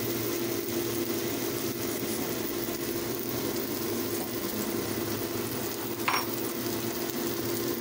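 Egg and enoki mushroom omelette sizzling steadily in hot oil in a pan, over a steady low hum, with one brief sharp sound about six seconds in.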